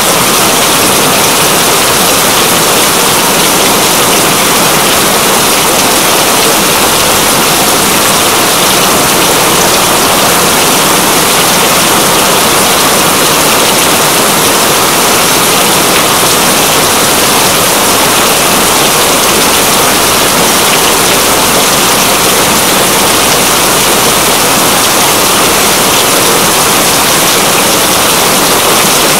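Steady heavy rain, a dense even hiss that does not let up.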